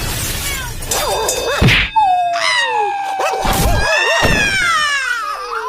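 Cartoon sound effects: swishes, then a sharp whack about two seconds in, followed by long gliding pitched tones that slide down and back up.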